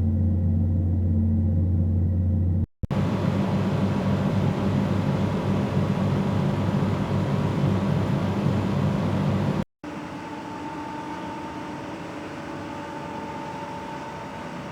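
Three separate steady whirring machine sounds, played one after another with a brief silence between each. First a low, even hum; then a louder, rougher low whir; then a quieter whir with a thin steady whine in it.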